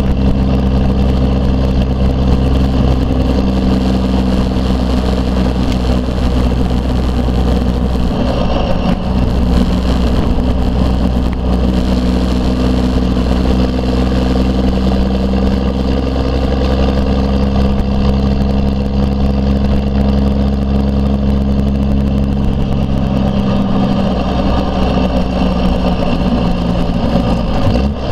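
A 1992 Dodge D350's 12-valve Cummins 5.9 L inline-six turbo-diesel running through a straight-piped 5-inch exhaust stack while the truck is driven. The engine note is steady, with a few shifts in pitch as the revs change, about a third of the way in and again near the end.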